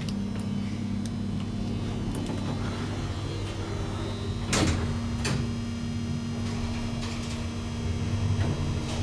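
Doors of a MacGregor Navire traction elevator sliding, with two sharp clicks about halfway through, over a steady low hum.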